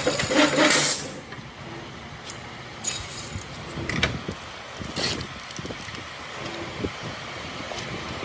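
Factory machinery: a loud pitched hum that cuts off about a second in, then a steady background noise with scattered clicks and knocks.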